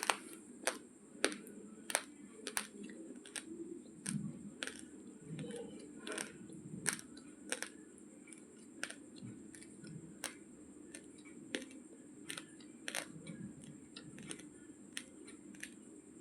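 Raw basmati rice grains being chewed: sharp, irregular crunches, about one or two a second, as the teeth crack the hard dry grains.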